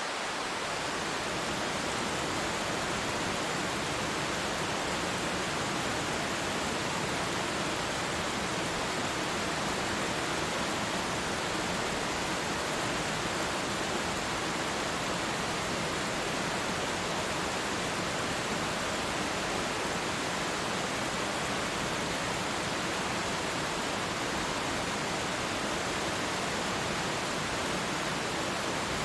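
A waterfall: a steady, even rush of falling water with no breaks or changes.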